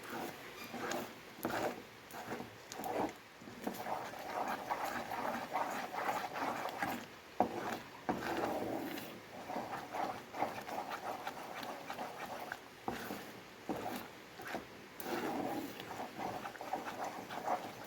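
A spoon stirring and scraping thick, sticky brigadeiro around a pan in irregular, repeated wet strokes as the mixture reaches its finished thickness.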